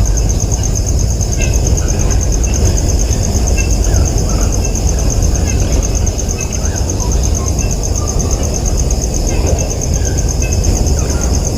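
A steady, fast-pulsing insect drone over a loud, even low rumble, with scattered short faint chirps.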